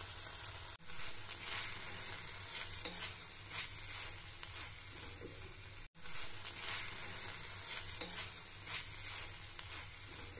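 Onion-tomato masala with turmeric and red chilli powder sizzling in hot oil in a pan while it is stirred and scraped, with two brief breaks in the sound.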